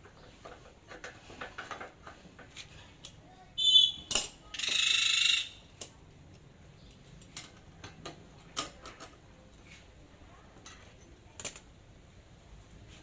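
Metal tools and hand pallet truck pump parts clinking and knocking during repair work, scattered light clicks throughout. About four seconds in comes a loud ringing clink, followed by a second-long screech of metal scraping.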